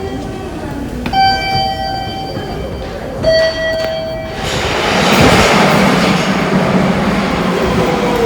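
Two short electronic chime tones sound about a second apart, then a subway train rumbles into the station from about halfway through, its noise swelling with a gliding whine near the end.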